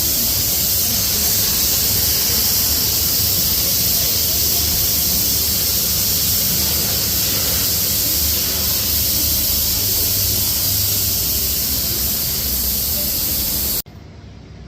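Compressed-air spray gun spraying high-build primer: a loud, steady hiss of air and atomised paint with a low rumble underneath, which cuts off suddenly near the end.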